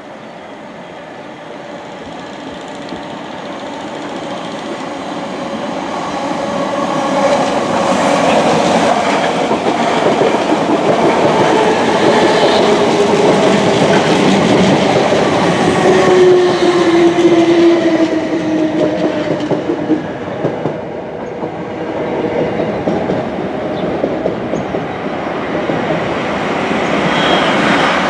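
A train running past on the line, growing louder over the first several seconds, with whining tones that fall in pitch while it is loudest. The sound eases for a moment later on, then builds again near the end.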